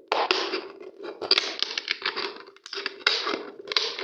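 Scissors cutting through a thin plastic bottle, the plastic crackling and crinkling in about five uneven bursts as each cut is forced. The scissors are blunt and barely cut.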